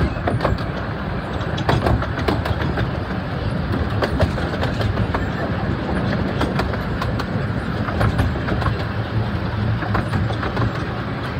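Miniature-railway passenger carriage running along the 15-inch-gauge track, heard from on board: a steady low rumble with irregular wheel clicks and rattles.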